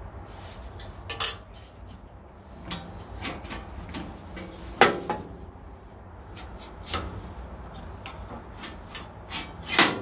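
Metal bandsaw parts clinking and knocking as they are handled and fitted, with scattered clacks, the sharpest about five seconds in and another near the end.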